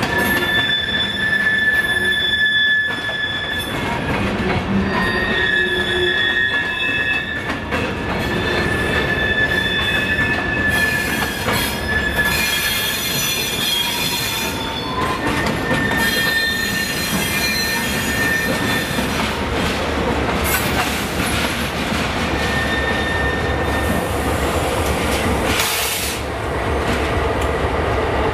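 CN freight train's hopper cars rolling slowly past, their steel wheels squealing on the rails over a constant rumble, with high squeal tones coming and going.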